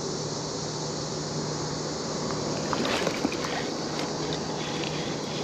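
Steady outdoor rushing noise with a faint low hum, and a few light clicks from about halfway through.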